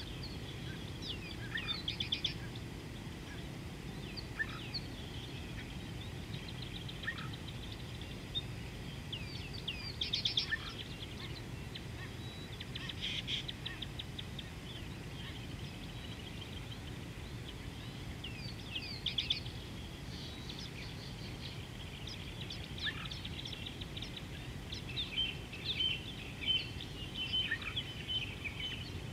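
Wild birds chirping and calling in short bursts of rapid notes, with a run of chattering calls near the end, over a steady low background noise.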